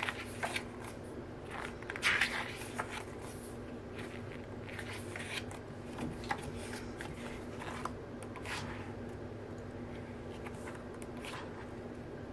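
Paper and packaging rustling and crinkling in irregular short bursts as a photo book is handled, the loudest about two seconds in, over a faint steady hum.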